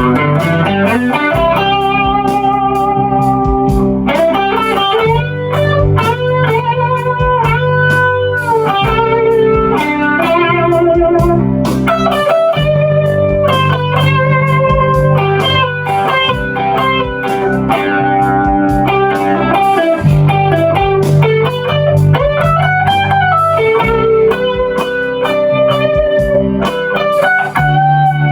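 PRS Custom 24 electric guitar through a Two Rock Vintage Deluxe amp, with chorus and long tape delay from an Echo Fix EF-X3. It plays a sustained melody over low chords, with note bends and vibrato.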